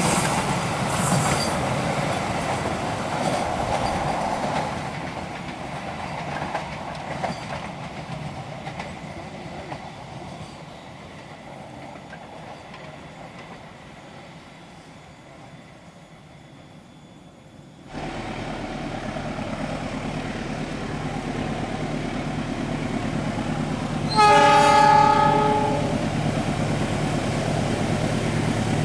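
Noise of a passing train fading away, then, after a sudden cut, a diesel locomotive's engine running steadily as it approaches. Its horn sounds one blast of about a second and a half, the loudest sound here.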